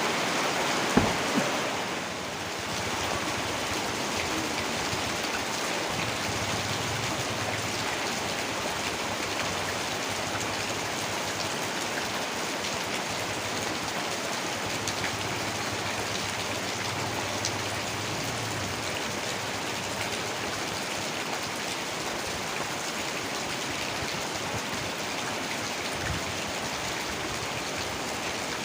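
Heavy rain falling steadily, a dense even hiss, with two sharp taps about a second in.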